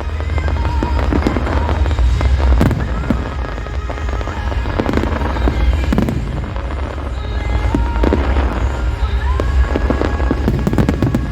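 Fireworks bursting and crackling in a large display, a bang every second or two, over loud music and a continuous low rumble.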